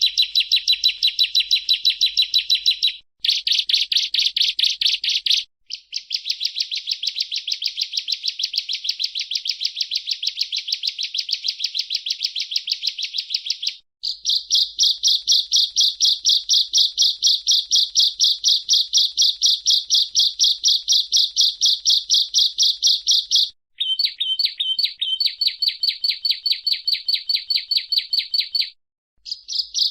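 Bar-winged prinia (Prinia familiaris) singing: long runs of sharp, rapidly repeated chips, several a second. The runs are broken by a few short pauses, and the note pattern changes after each break.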